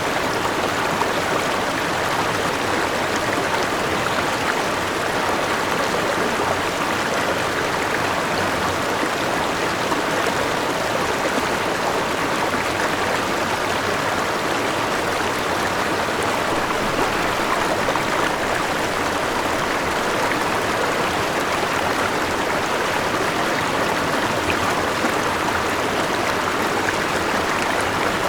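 Forest river rushing over rocks at a small waterfall: a steady, even wash of flowing water.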